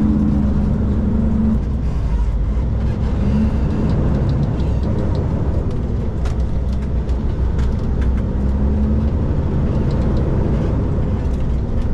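Kenworth K200 cab-over truck's Cummins diesel engine running steadily while the truck is driven, a low drone whose hum fades in and out, with a few faint clicks.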